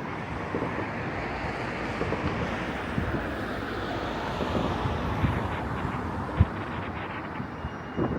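Distant fireworks going off across a city: scattered low bangs and pops, with one sharper, louder bang about six and a half seconds in, over a steady rush of wind on the microphone and city background noise.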